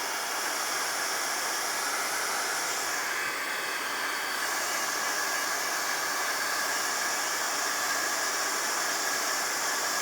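Handheld craft heat tool blowing steadily, an even hiss of fan and hot air, used to dry glue on a paper collage.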